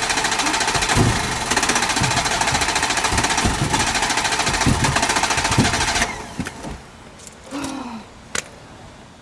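Peugeot 106's starter motor cranking the engine in a fast, even rhythm without it catching: a car that won't start. The cranking stops about six seconds in, followed by a few light clicks.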